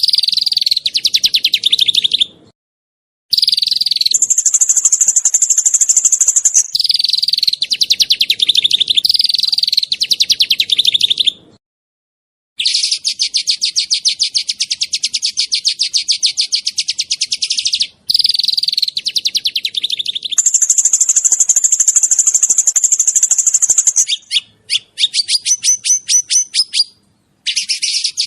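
Small songbird singing long, fast trills of rapidly repeated high notes, some runs higher and thinner than others, broken by short pauses. This is the dense, sharp 'tembakan' style of song used as masteran to train caged songbirds.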